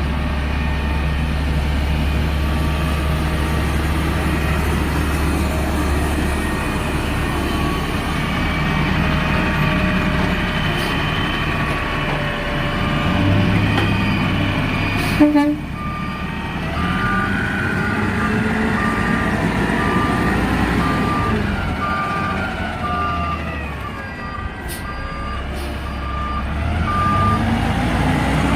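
Garbage truck engine running. About halfway a brief sharp sound, then the truck's reversing alarm beeps steadily at one pitch, about once a second, while the engine keeps running.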